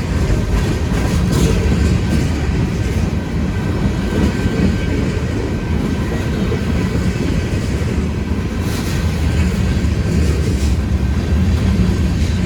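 Long freight train rolling past close by, its cars making a steady, loud rumble on the rails, with a few brief sharp knocks.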